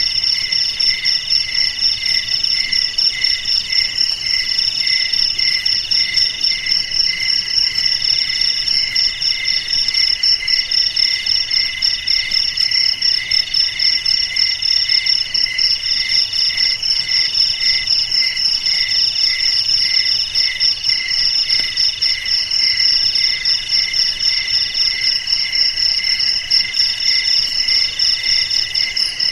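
Crickets and other insects calling together in a steady chorus of several overlapping chirring calls at different pitches. The lowest call pulses a couple of times a second, and a higher one comes in longer stretches with short breaks.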